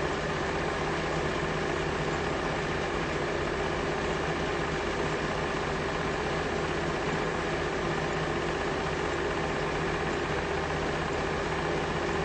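A steady mechanical hum with a low drone and an even hiss, unchanging throughout.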